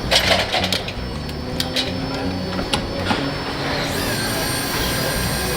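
Factory machinery running with a steady hum and a series of sharp metallic clicks and knocks in the first few seconds. About four seconds in, the hum changes to a different machine background with a high steady whine.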